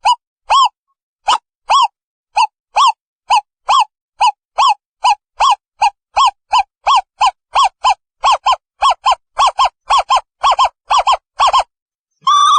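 An owl calling a long series of short hoots that starts at about two a second and speeds up to about three a second, then stops shortly before a longer, wavering call begins at the very end.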